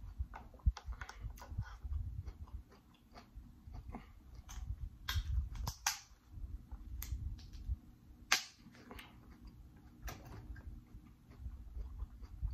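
Eating sounds: wet chewing and mouth clicks while eating a seafood boil, with scattered sharp clicks from fingers handling the food, the loudest click about eight seconds in.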